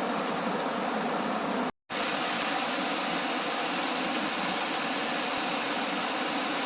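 Steady rushing of falling water from a waterfall, a dense even hiss. It drops out completely for a split second a little under two seconds in, then resumes much the same.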